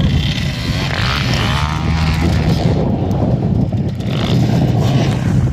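Motorcycle engine running close by, its pitch shifting a little as it is throttled.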